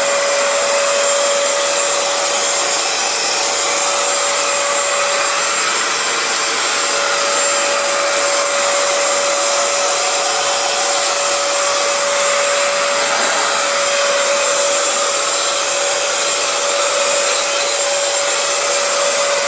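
Hoover FloorMate Edge hard-floor cleaner running in wash mode: a steady rush of suction air with a constant motor whine.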